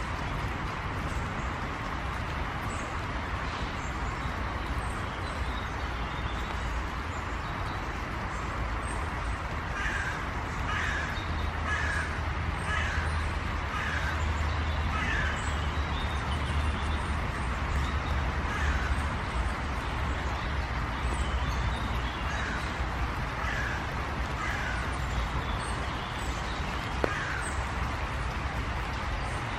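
A bird giving a series of short, downward-sliding calls, about one a second, most of them in the middle stretch, over a steady background noise.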